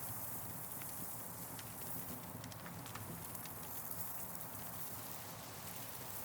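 Campfire crackling: irregular sharp pops and ticks over a steady hiss and low rumble of burning wood.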